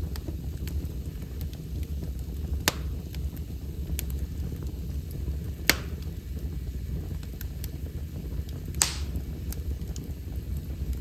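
Wood fire burning in a fireplace: a steady low rumble with constant small crackles, and three louder sharp pops about three seconds apart.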